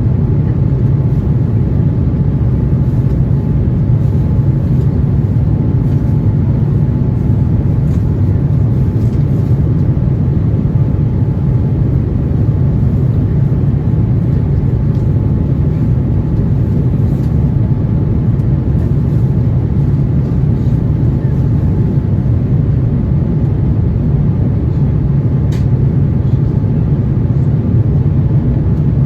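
Steady cabin noise inside an Airbus A350-900 airliner: an even low rumble of engine and airflow, with a faint steady whine above it.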